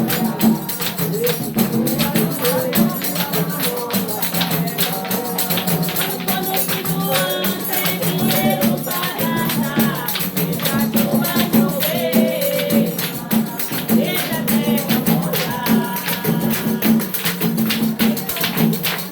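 Samba de roda chula music: a pandeiro and other hand percussion keep a fast, steady beat, with singing voices coming in through the middle.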